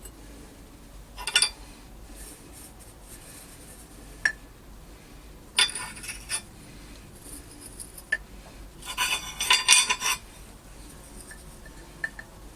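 Hard metal objects clattering and clinking as they are handled, in three short bursts, the loudest around nine to ten seconds in, with a few single clicks between.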